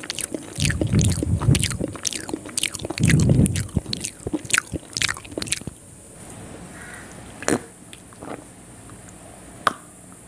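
Close-up eating sounds of a person chewing soft rice noodles: wet chewing and lip smacks for about the first six seconds. Then it goes quieter, with a few single clicks.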